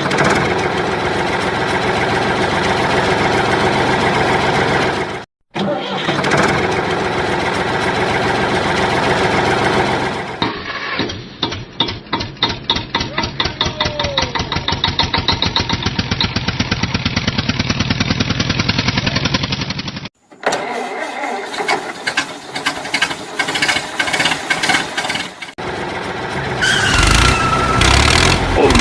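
Tractor engine running, spliced from several clips with abrupt cuts. In the middle it settles into an even, slow chugging of about four to five beats a second.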